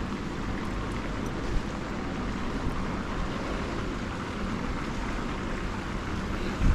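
Wind rushing across the microphone, a steady outdoor noise with a brief low thump near the end.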